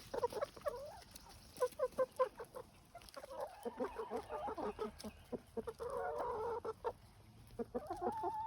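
Chickens clucking over lettuce leftovers: a run of many short clucks, with a longer drawn-out call about six seconds in and a rising call near the end.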